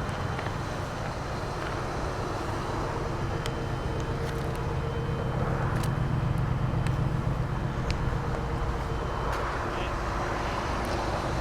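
Cadillac Northstar 4.6-litre V8 idling steadily, heard at the rear of the car near its quad exhaust tips.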